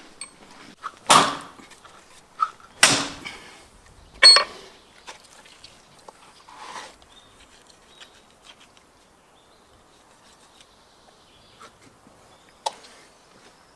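Three loud knocks with scraping tails in the first few seconds, then a few fainter knocks, from working on a carcass with a knife.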